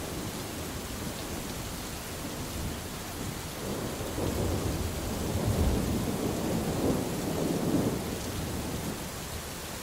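Steady rain falling, with a long, low roll of thunder that builds about a third of the way in, rumbles loudest in the middle and fades away near the end.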